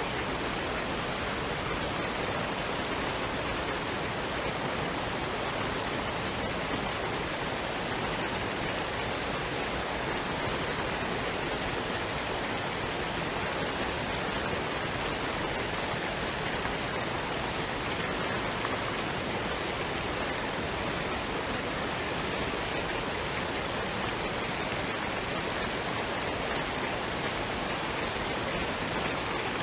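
Waterfall and stream: a steady, unbroken rush of falling and running water.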